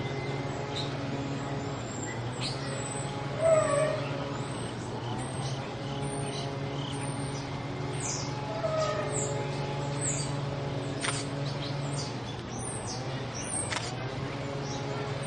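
Small birds chirping in many short, high calls, with one louder, lower falling call about three and a half seconds in, over a steady low hum.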